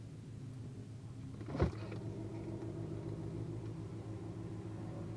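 C7 Corvette Z06's supercharged V8 running steadily at low revs, heard from inside the cabin, with a single knock about one and a half seconds in.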